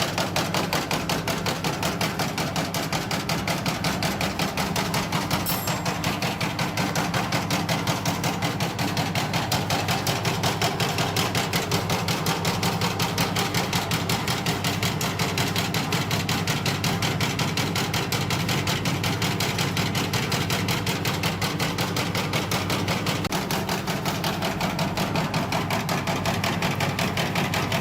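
Conveyor-belt coconut-jelly dicing machine running, its blade chopping steadily in rapid, even strokes over the motor's hum as it cuts jelly into 12 mm cubes.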